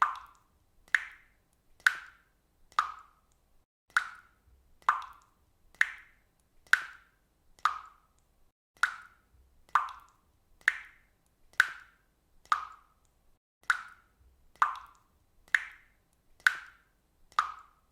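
Water dripping steadily, one drop about every second, each a short, clear plop that fades quickly.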